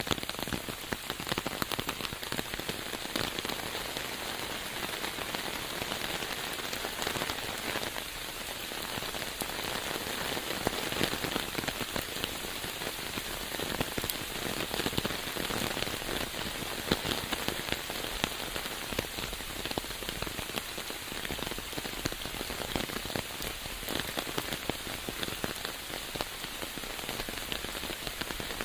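Steady rain falling, a dense, even patter of many small drop impacts.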